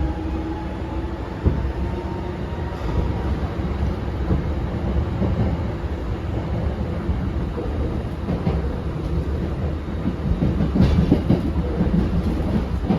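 Running sound inside a Hankyu 7000 series electric train car with field chopper control. A faint rising whine fades out in the first couple of seconds, then there is a steady rumble from the wheels and rails. Clacks come over the rail joints, busiest between about 10.5 and 12.5 seconds in.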